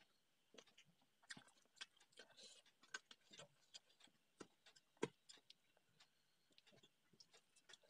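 Close-up eating sounds of a person chewing a hand-eaten meal of rice and curries: faint, irregular mouth clicks and smacks, with one sharper click about five seconds in.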